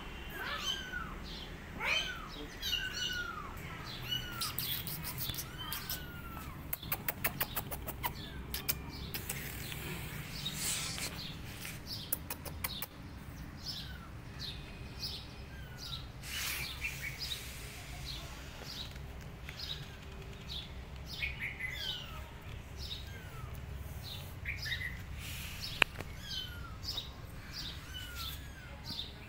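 Small birds chirping in many short, quick calls, repeated all through. There is a rapid run of clicks about seven seconds in and a single sharp click near the end.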